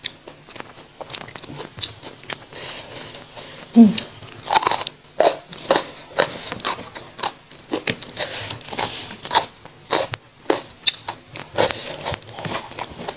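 Close-up eating sounds of raw jengkol (dogfruit) and raw leafy greens: irregular crisp crunches and chewing.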